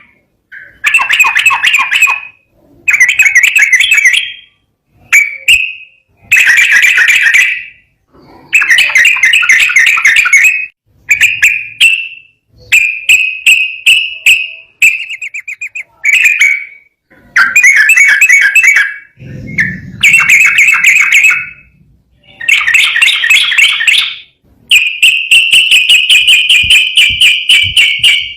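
Yellow-vented bulbul singing: a string of short, bubbly, chattering phrases, one every second or two with brief pauses. Near the end comes one long, rapid, even trill lasting about three seconds.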